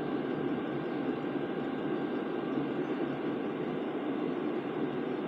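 Hcalory diesel air heater running hot at full output, its blower and burner making a steady blowing noise.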